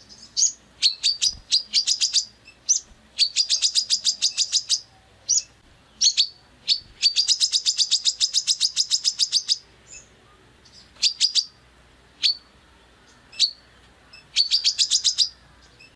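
A songbird calling in fast trains of sharp, high chip notes, about eight a second, each train lasting one to two and a half seconds, with single chips between them. These are the harsh rapid-fire 'tembakan' phrases that bird keepers use in masteran training recordings.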